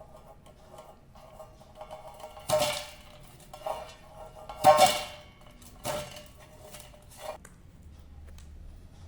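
A metal dish being knocked about four times, each knock ringing briefly at the same pitch, the loudest about halfway through.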